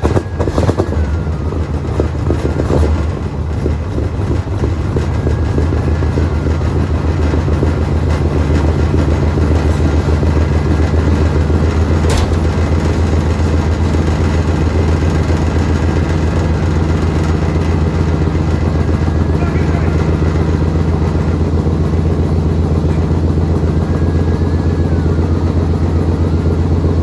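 Oldsmobile 455 V8 idling on a cold start. It runs unevenly for the first few seconds, then settles into a steady idle. There is a single click about twelve seconds in.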